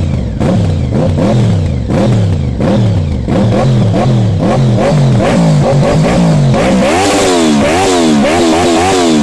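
Honda VFR V4 motorcycle engine revved in short, repeated throttle blips, each rising and dropping back; the blips come quicker and climb higher in the last couple of seconds.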